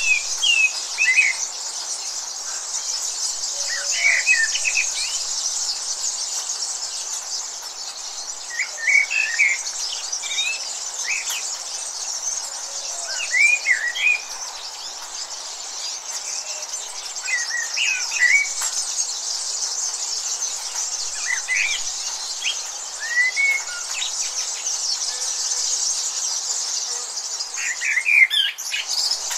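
Birds chirping in short, quick phrases every few seconds over a steady high-pitched hiss.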